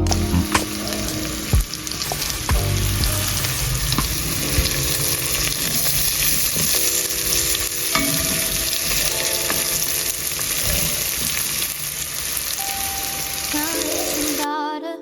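Food sizzling steadily in a hot frying pan, with a few short knocks of a utensil against the pan as it is stirred. The sizzle cuts off abruptly near the end.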